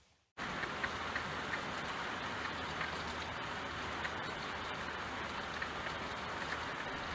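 Steady rain: an even hiss with scattered small drop ticks. It cuts in abruptly about half a second in, after a brief moment of dead silence.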